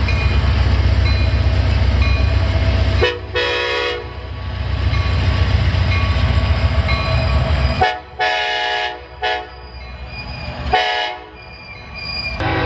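A quick run of train clips cut together: trains rumbling past and sounding their multi-tone air horns, with the sound changing abruptly at each cut, about every three seconds.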